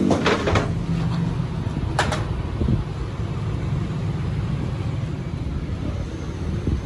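Steady low machine rumble, with a few sharp knocks near the start and another about two seconds in.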